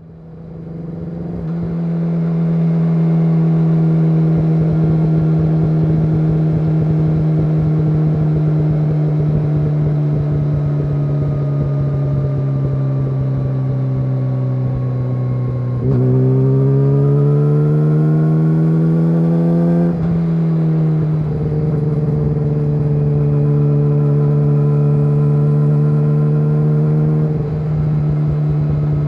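Yamaha YZF-R6 inline-four running at a steady, high-revving idle through an SC-Project SC1-R exhaust. The note sags slightly, lifts a little higher for about four seconds around the middle, then settles back.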